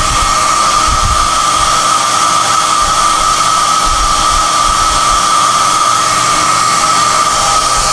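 SOUNATE high-airflow hair dryer (XM-H008/YX-HM008-G) running steadily: a loud rush of air with a high, steady whine from its motor.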